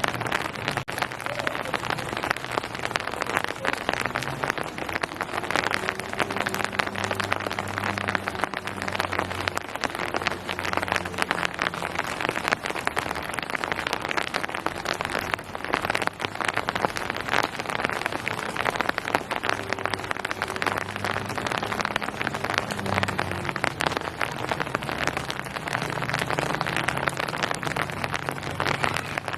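Steady rain falling, a dense, even patter of drops on surfaces. A faint low hum swells and fades underneath at times.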